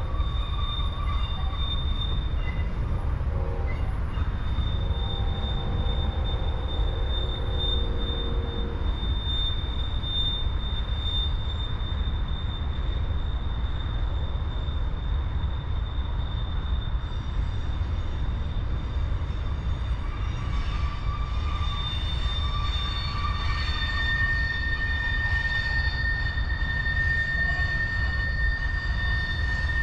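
Freight train rolling by on the rails with a steady low rumble and a sustained high-pitched wheel squeal; a second, lower squeal tone joins late on.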